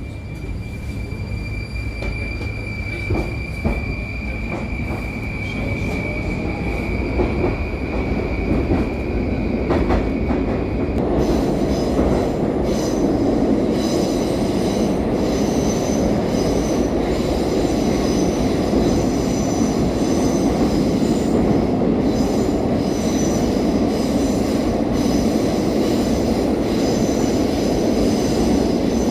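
Moscow metro train running through the tunnel, heard from inside the car. A steady high whine holds for about the first ten seconds and cuts off suddenly, after which the running noise of wheels on rails grows denser and slightly louder.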